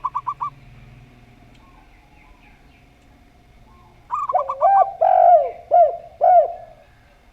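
Doves cooing: a quick run of about five short high notes at the start, and another about four seconds in. The second run is followed by several louder, lower, arched coos. These are typical of zebra dove and spotted dove song.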